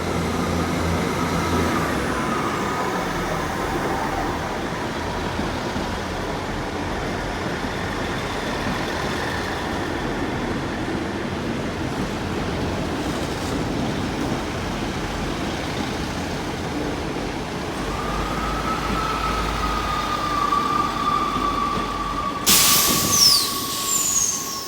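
South Western Railway Class 159 diesel multiple unit moving through the station, its diesel engines making a steady low rumble. Late on, a steady whine comes in, and near the end there is a sudden loud hiss with high squeals.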